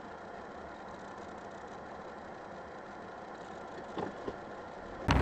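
Steady low hum of a car engine idling, heard from inside the vehicle, with two faint knocks about four seconds in. Just before the end, a much louder rush of noise cuts in abruptly.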